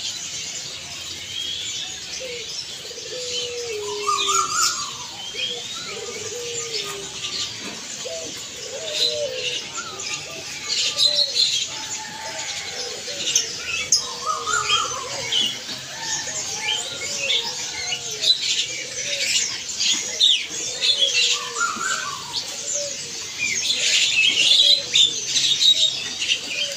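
Many caged birds chirping and twittering together at a bird market, a dense chatter of short high chirps, with lower curved calls repeating about once a second.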